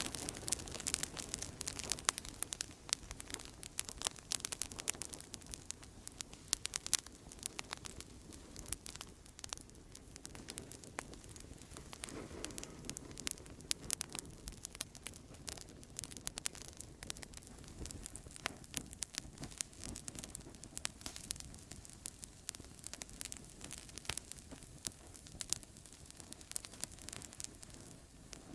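Outdoor campfire burning, with frequent sharp crackles and pops over a soft steady hiss.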